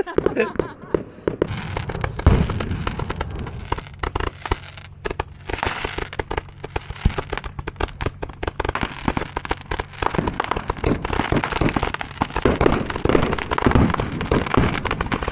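Fireworks crackling and popping in a rapid, dense run of sharp reports, with a few heavier bangs mixed in.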